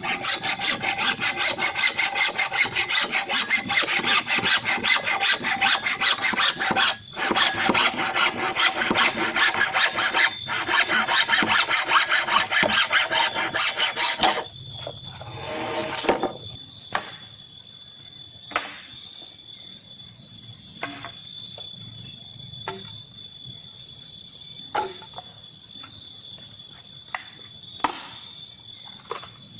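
Hand saw cutting through wood in rapid back-and-forth strokes, pausing briefly twice, then stopping about halfway through. Afterwards a faint steady high tone and a few scattered sharp knocks.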